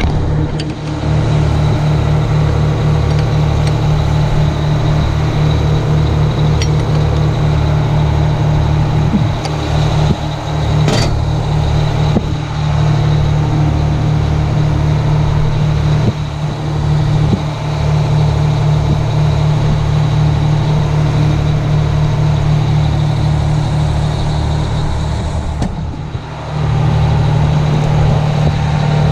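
Detroit Diesel engine of a 1980 Howe fire truck running steadily and loud, with a steady hiss above it, as it drives the truck's 1250 GPM fire pump. A sharp click about eleven seconds in, and the engine sound dips briefly near the end before coming back.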